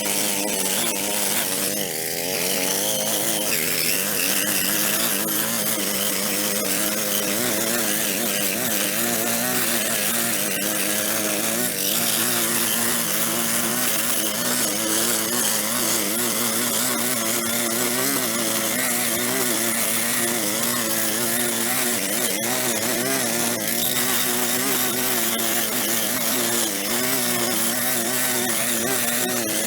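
Small gas-powered tool engine running continuously, its pitch wavering up and down as it takes and sheds load while cutting.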